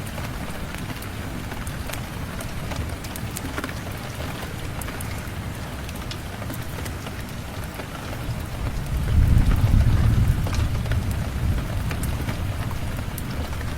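Steady rain falling, with a low roll of thunder that swells about two-thirds of the way through and then fades away.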